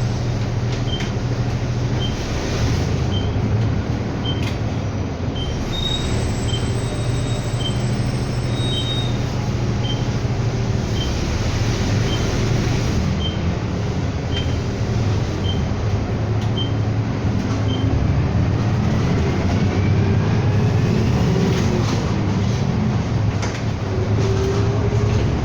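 Inside a city bus pulling away from a stop: steady engine and road rumble. A faint high tick comes about once a second for most of the time, and a rising whine builds as the bus gathers speed.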